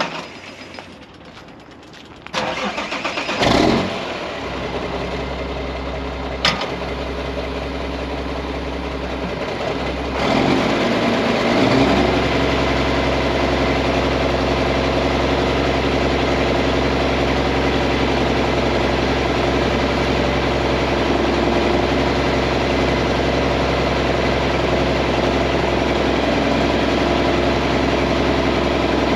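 Mack heavy-truck diesel engine cranking and catching about three seconds in, then idling steadily. About ten seconds in, the engine takes on load and runs louder and steadier, as the roll-off hoist's hydraulics are engaged to lift the body.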